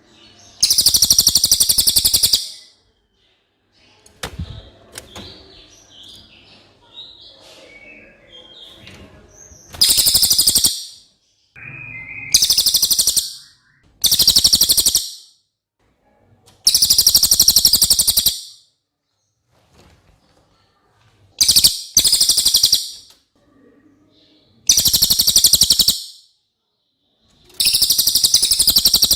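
Cililin songbird singing: loud, very high, fast trilling phrases of one to two seconds each, repeated about eight times with short pauses between them.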